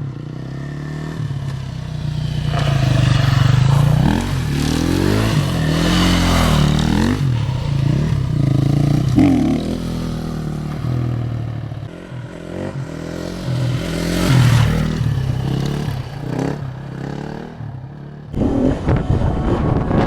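KTM 350 EXC-F's single-cylinder four-stroke engine revving up and falling back again and again as the bike is ridden, with some rattle. The engine sound breaks off abruptly near the end.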